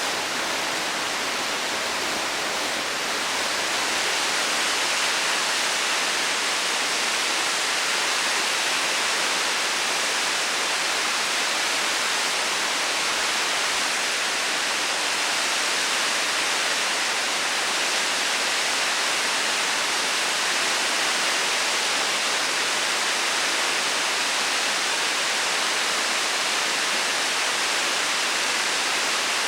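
Waterfall: a steady rush of falling water, growing a little louder about three seconds in.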